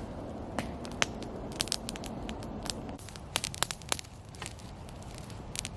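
Small campfire of birch bark and dry pine kindling crackling, with irregular sharp pops and snaps.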